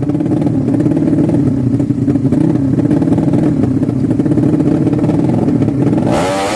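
Drag-racing motorcycle engine held at high, steady revs, then dropping in pitch near the end as a hiss of noise rises.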